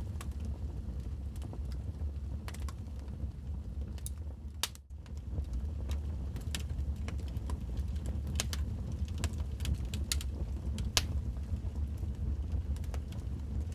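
Wood fire burning in a fireplace: a steady low rumble of flames with irregular sharp crackles and pops. The sound briefly dips about five seconds in.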